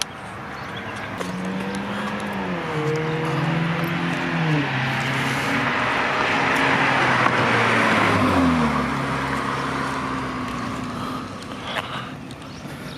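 Car with a newly fitted aftermarket exhaust accelerating, the engine pitch climbing and dropping back several times as it shifts; it grows louder toward the middle and fades near the end.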